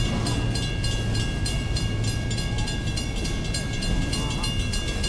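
Diesel locomotives of a BNSF empty coal train running with a steady low rumble as the train creeps forward at a crawl. A fast, even high ticking with steady ringing tones runs over it.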